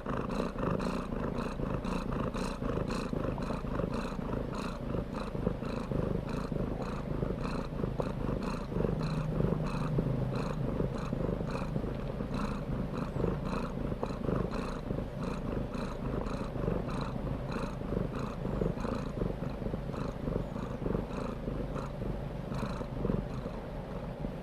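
A cat purring steadily, a continuous rumble with an even, regular pulse.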